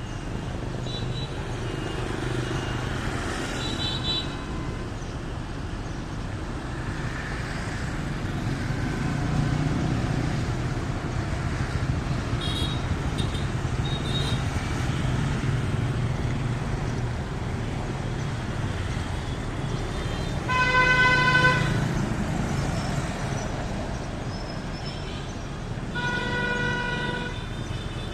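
Steady road traffic rumble with two vehicle horn honks: a loud one of about a second around twenty seconds in and a longer one near the end. A few faint, short high chirps come earlier.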